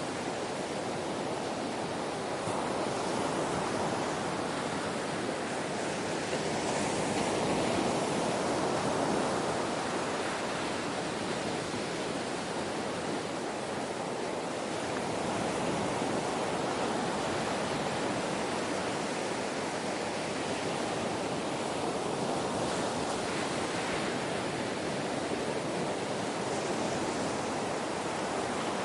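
Ocean waves washing on a shore in a continuous hiss, with slow gentle swells that rise and fall every several seconds.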